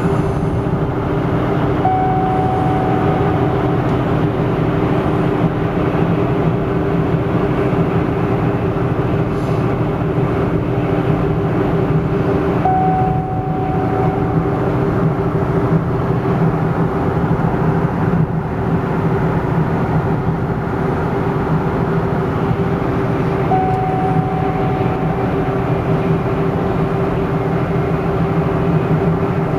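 Rebuilt Cadillac Northstar V8 engine running steadily at an even speed. A short high beep sounds about every ten seconds.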